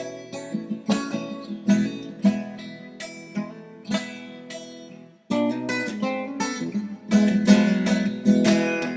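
Acoustic guitar playing an instrumental passage of picked notes and strums between sung verses, breaking off briefly about five seconds in and then coming back louder.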